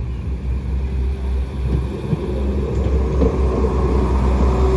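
Diesel train approaching the level crossing, its low engine rumble growing steadily louder.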